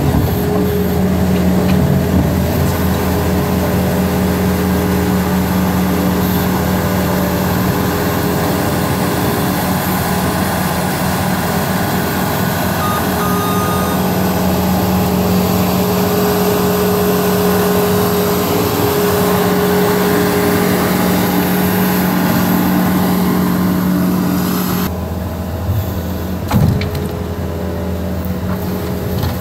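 A New Holland L230 skid steer's diesel engine running steadily under work as the loader clears mud. About three-quarters of the way through, the engine note drops and gets quieter, and a short knock follows soon after.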